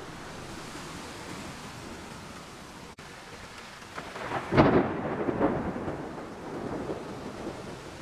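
Heavy rain falling on the open water of a shrimp pond, a steady hiss. About four and a half seconds in, a louder rumbling surge swells for around a second and then tapers off.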